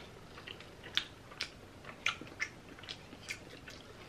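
Close-miked chewing of a mouthful of curry and rice: irregular wet mouth clicks and smacks, about a dozen over a few seconds.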